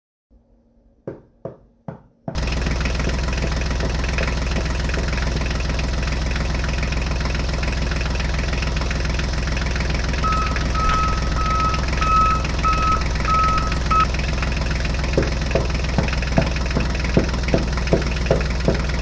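An engine running steadily. It cuts in abruptly a couple of seconds in, after a few clicks. A short series of high beeps comes midway, and a regular knocking starts near the end.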